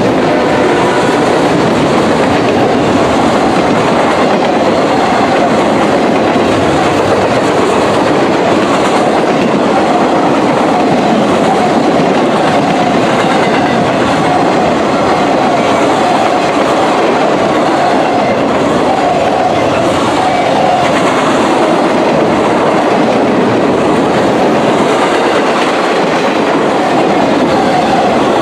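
Loaded military freight train rolling past at speed: steady, loud wheel-on-rail noise with the clickety-clack of railcars over the track.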